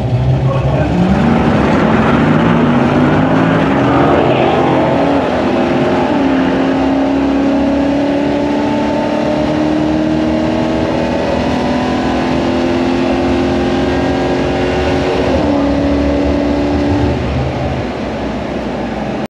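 Classic Mopar V8 car making a full-throttle drag-strip pass. The engine note is steady for about a second, then climbs as the car accelerates, drops back at an upshift about a third of the way in and again near the end, and eases off in the last couple of seconds.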